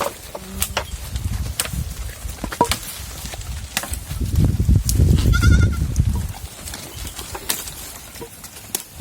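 A goat bleats once, a short quavering call about five seconds in, over a low rumble and scattered sharp clicks.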